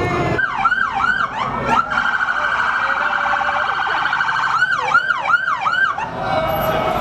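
Police car siren sounding loud and close. It sweeps up and down in quick yelps, about three a second, then switches for a couple of seconds to a rapid pulsing warble on one pitch, then goes back to yelps.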